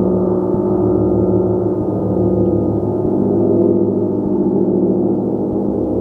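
Gong played continuously, a dense, steady wash of many overlapping tones that swells and settles without any single clear strike.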